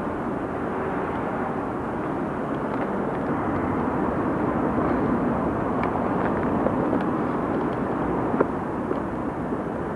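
Steady rushing background noise, with a few faint clicks scattered through it.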